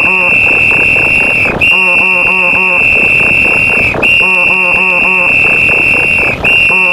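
Referee whistle sound effect blowing long, steady, high blasts, restarting roughly every two and a half seconds. Under it plays a jumble of other looped sound effects with short pitched pulses.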